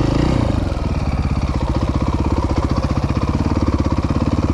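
Dirt bike's single-cylinder engine running steadily at low, even revs.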